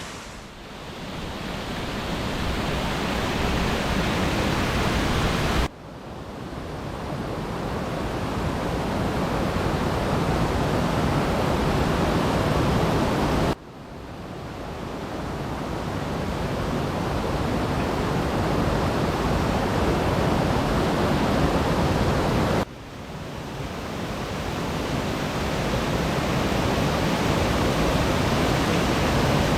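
Waterfall rushing, a steady wash of falling water. It breaks off sharply three times and each time swells back up over a few seconds.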